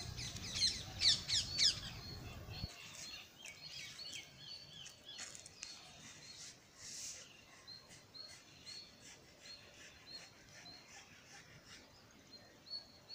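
Small birds chirping: a quick run of sweeping chirps in the first two seconds, then a short high note repeated about once a second. A low rumble runs under the first two and a half seconds and then stops.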